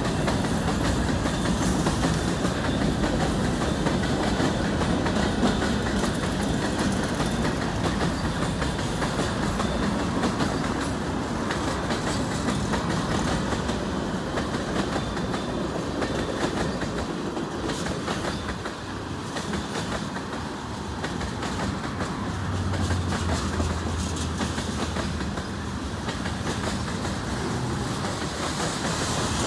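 Canadian National freight train of covered hopper and tank cars rolling steadily past, with the continuous rumble and clatter of wheels over the rails.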